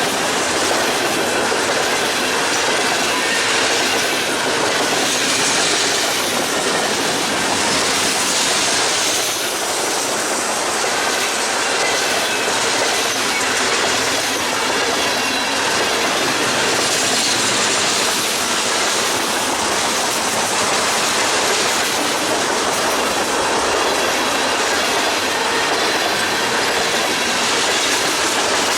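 Freight train cars rolling past at speed, with a steady clatter of steel wheels over the rail and some wheel squeal.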